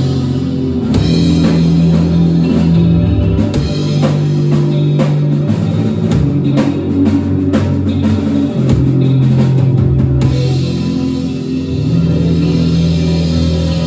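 A rock band playing guitars and a drum kit, with held low guitar notes changing every second or two under steady drumming and no singing. The cymbals drop away about ten seconds in.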